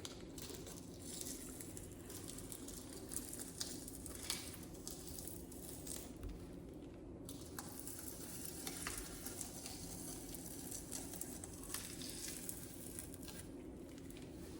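Faint crackling and squishing of ready-mixed mortar being squeezed out of a plastic bag in a line along concrete blocks, with a few small clicks and a steady low hum underneath.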